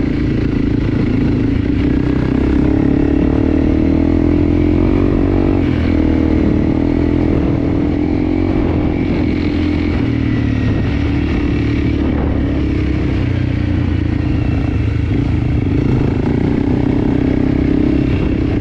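Enduro dirt bike engine running at fairly steady revs while riding, its pitch wavering up and down slightly.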